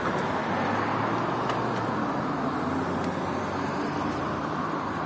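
Steady road-traffic noise with wind rush while travelling along a road, with a faint low engine hum through the middle.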